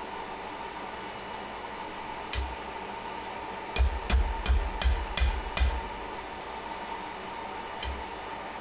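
Blacksmith's hammer striking steel on the anvil while forging tongs: a couple of single blows, then a quick run of about six strikes, then one more near the end, over a steady hum.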